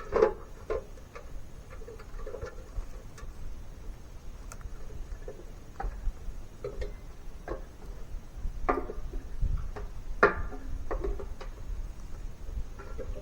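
Scattered, irregular light clicks and knocks, the loudest about nine and ten seconds in, over a steady low rumble.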